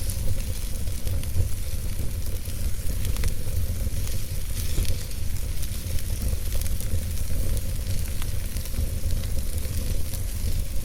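Wood logs burning in a fireplace: a steady low rumble and hiss of the fire, with frequent small crackles and pops scattered throughout.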